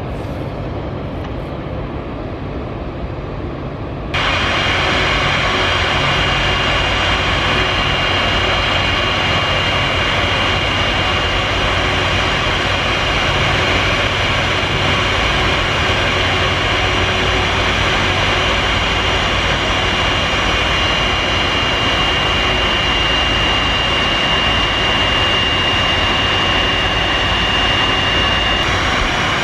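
Jet airliner noise from an Airbus A330-300: a steady rush with a thin high whine over a low hum. It jumps suddenly louder about four seconds in and then holds steady.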